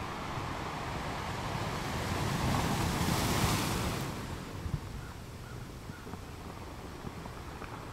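Ocean surf: a wash of breaking waves that swells about two seconds in, peaks a moment later and falls away.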